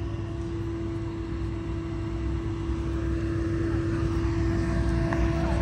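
Car engine idling with a low rumble under a steady droning whine, growing slightly louder. The speaker first takes the whine for the supercharger, then for the cooling fan.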